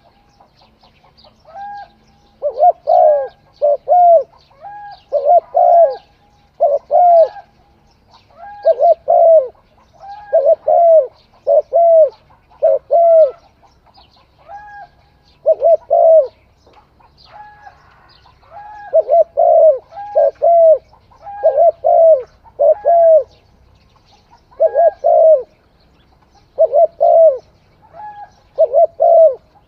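Spotted dove cooing over and over, in short phrases of two or three low coos with brief pauses between them.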